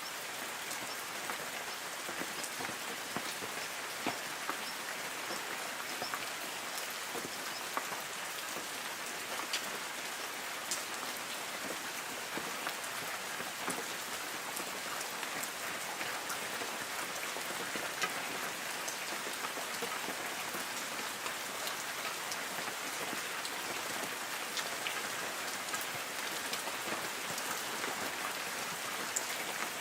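Light rain falling steadily on forest trees: an even patter of drops on leaves, with scattered single drops ticking louder.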